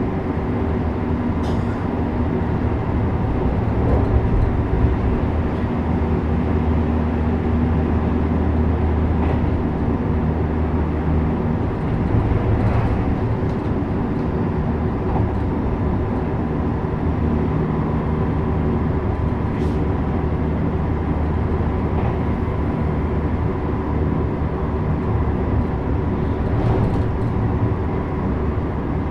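JR West 321 series electric train running at speed: a steady rumble with a low motor and gear hum, and a few faint clicks along the way.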